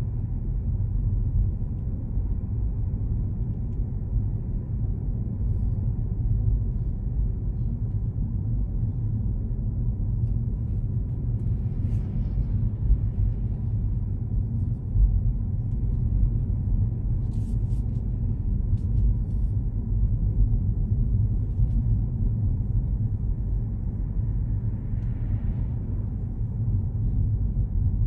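Steady low rumble of a car being driven, with a few faint clicks partway through.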